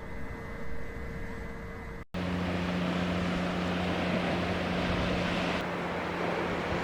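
A low electrical-sounding hum, then after an abrupt cut about two seconds in, a vehicle running steadily, with an even engine drone and road or wind noise.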